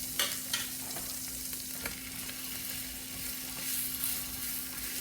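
Chicken in barbecue sauce and butter sizzling on a hot griddle, a steady hiss, with a few light clicks in the first two seconds and a steady low hum underneath.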